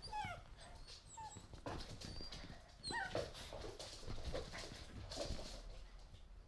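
Pit bull puppies whining in short high squeals while they play, with scattered clicks and knocks throughout.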